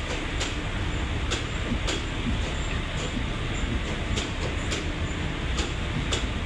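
A train running on the track: a steady low rumble with sharp clicks at irregular intervals.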